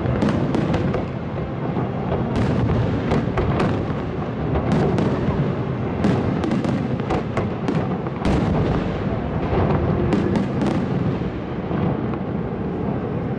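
Professional fireworks display: a dense barrage of sharp bangs from bursting shells over a continuous rumble of booms.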